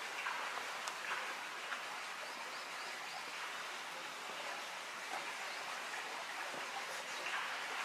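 Steady hiss of rain, with a faint sharp crack of a bat on a baseball about a second in and another near the end during batting-cage practice.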